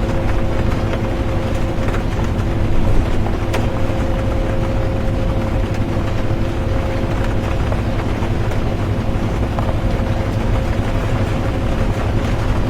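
Inside a moving bus: steady engine and road rumble with a constant droning hum, and scattered light ticks of rain on the windows.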